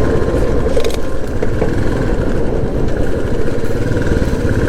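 Motorcycle running steadily while being ridden along the road, engine and riding noise at an even level.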